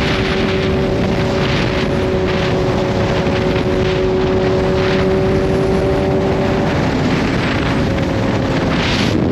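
Kawasaki Z H2's supercharged inline-four engine running at a steady cruise under a heavy rush of wind noise. The engine note holds an even pitch, then shifts about seven seconds in.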